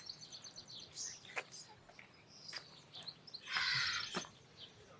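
Small birds chirping, with a quick trilled series at the start and scattered short calls. A brief, louder rustling hiss about three and a half seconds in.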